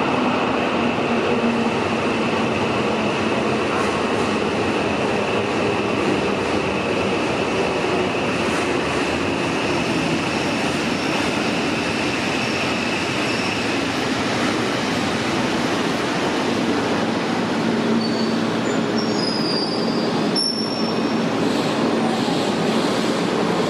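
Shintetsu electric commuter train pulling into an underground station, with a steady rumble of wheels and motors and a high steady wheel squeal. Shorter, higher squeals come near the end.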